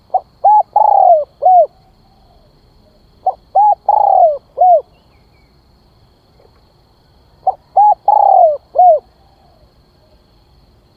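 Spotted dove cooing: three phrases about four seconds apart, each of four notes, the third note the longest and falling in pitch.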